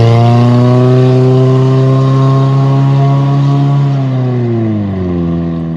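Toyota Prius inline four-cylinder engine through a straight-piped exhaust with no muffler, running loud at raised revs. The pitch climbs slightly, holds steady, then falls away over the last couple of seconds as the revs drop.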